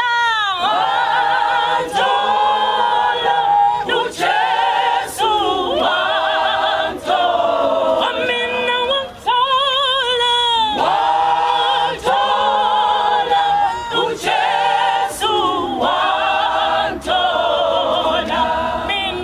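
Choir singing a cappella in a gospel style, with sustained phrases of a second or two and a wide vibrato on held notes.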